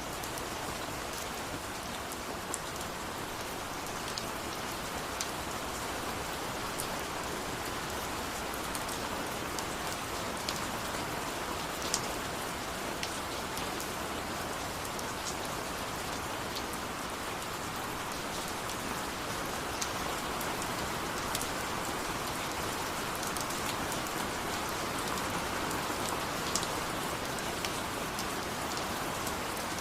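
Steady rain, an even hiss of falling water with frequent sharp drop ticks scattered through it.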